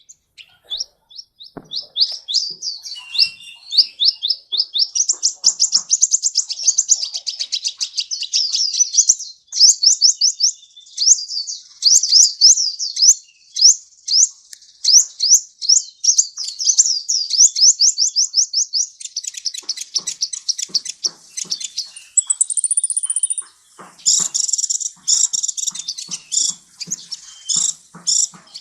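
A sunbird (the bird Indonesian bird-keepers call a kolibri) singing a long, fast run of high, sharp chirps, many to the second, with a brief thin high whistle a little past the middle.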